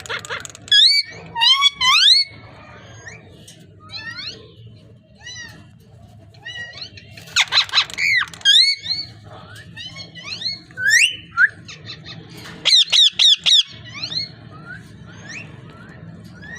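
Parrot calling in bursts of rising, whistle-like squawks, including a quick run of short calls near the end, over a faint steady low hum.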